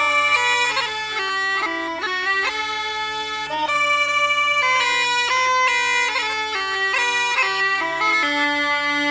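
Bagpipes playing a traditional tune: a melody moving note to note over a steady drone.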